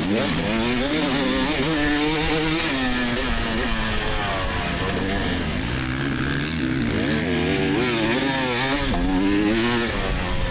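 2024 GasGas EX300 single-cylinder two-stroke dirt bike engine under racing load, its pitch constantly rising and falling as the throttle is opened and chopped.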